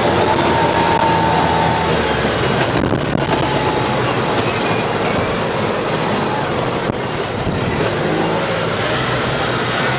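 A vehicle driving with its engine running under a loud, steady rush of road and wind noise.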